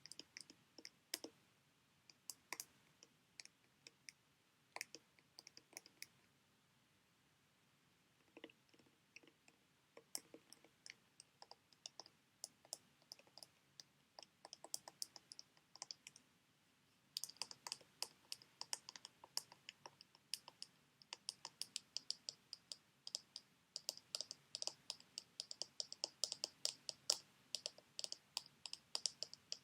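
Fingernails tapping and clicking on sheet-mask packets: scattered light taps at first, then from about halfway a fast, continuous run of crisp taps.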